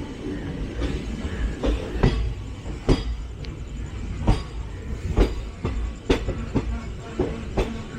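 Passenger train coach wheels rolling over the track: a steady low rumble with about ten sharp, irregular clacks as the wheels cross rail joints.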